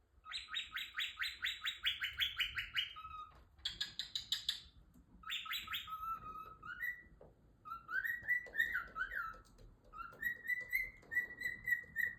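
Cockatiel chattering happily. It gives a fast string of chirps, about five a second, in the first few seconds, then a short burst of chirps. It then switches to wavering whistled notes, once around eight seconds in and again near the end.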